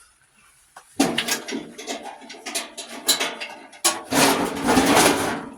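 Power tool, an impact wrench, running on a bolt in two bursts: a stuttering, rattling stretch starting about a second in, then a denser continuous burst near the end.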